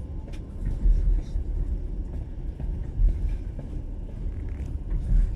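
Low, steady rumble of a moving passenger train heard from inside the carriage, swelling and easing every couple of seconds.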